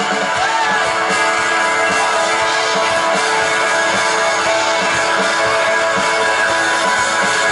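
Live rock band playing an instrumental passage without vocals: strummed guitar over a steady drum beat, amplified through a PA.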